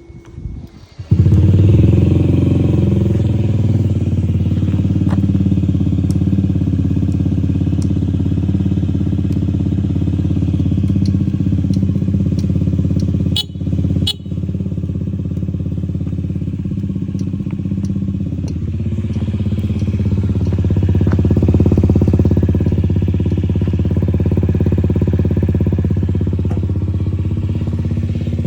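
Honda Zoomer scooter's single-cylinder four-stroke engine, fitted with an aftermarket muffler, starting about a second in and then idling steadily. Its sound drops out briefly around the middle, and the engine runs a little faster and louder for a while in the second half.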